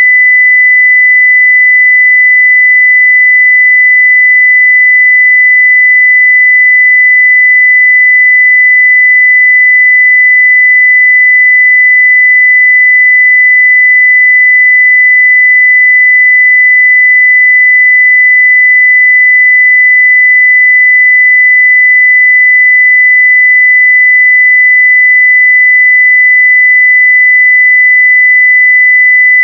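A continuous 2 kHz sine-wave test tone at full level, one pure steady pitch with no change.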